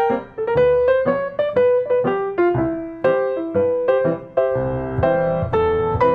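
Background piano music: a gentle melody of single notes, several a second, with low chords joining about four and a half seconds in.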